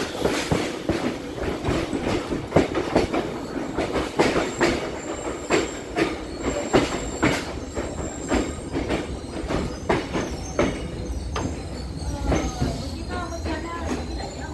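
Passenger train running: its wheels clack over rail joints in an uneven string of knocks over a steady rumble, with a faint high wheel squeal.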